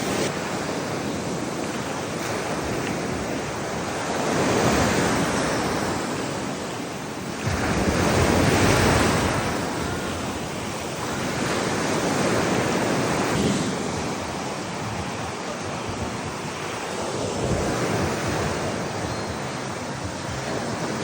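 Ocean surf washing in, with waves surging louder every four seconds or so.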